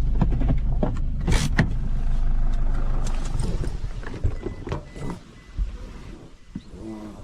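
Car engine running with a steady low hum that dies away about three and a half seconds in, with several knocks and clicks along the way.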